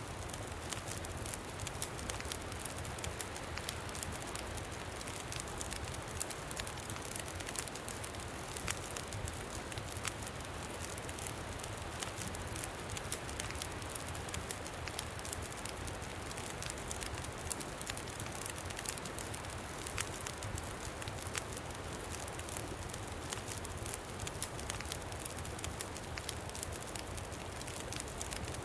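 Campfire crackling steadily, with many small irregular pops, over a low rumble of wind.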